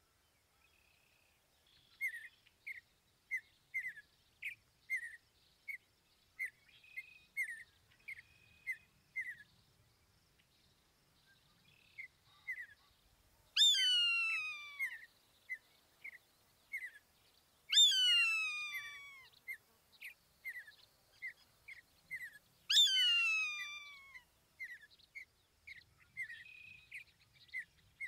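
Birds calling: a steady run of short high chirps, about two a second, with three loud, long calls that slide downward in pitch.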